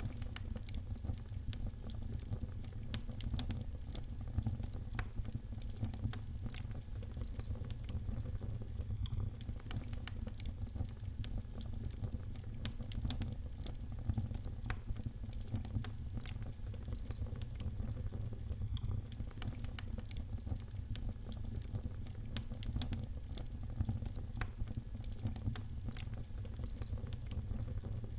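Wood fire burning in a fireplace, with irregular sharp crackles and pops over a steady low rumble of flame.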